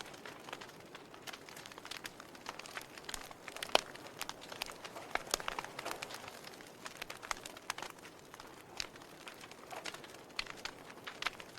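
Wood fire crackling: irregular sharp pops and snaps over a soft hiss, with one louder pop a little under four seconds in.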